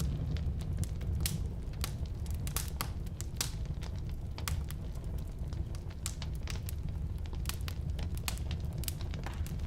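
Firewood burning in a fireplace stove: a steady low rumble of the flames with irregular sharp crackles and pops, several a second.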